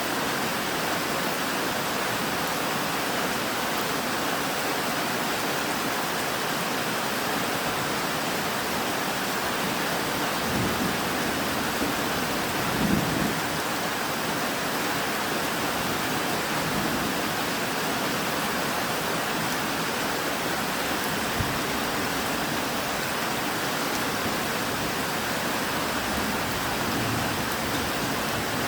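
Steady, dense rainfall. A low rumble of distant thunder swells and fades around the middle, and there is a single sharp tick about two-thirds of the way through.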